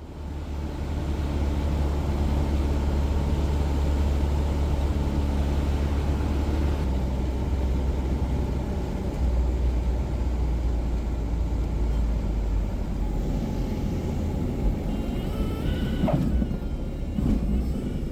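Cessna 177 Cardinal's piston engine and airflow on final approach: a steady low drone whose pitch shifts about a third of the way in. Near the end come a few brief higher tones and a short falling squeal.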